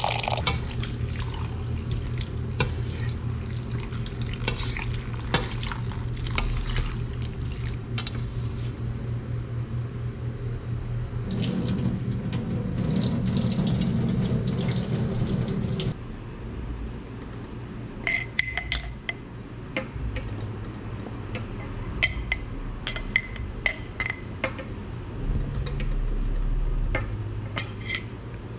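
Kitchen handling sounds of pickling: liquid sloshing and being stirred or poured, with small knocks, then from a little past halfway a run of sharp, ringing clinks of glass jars and lids.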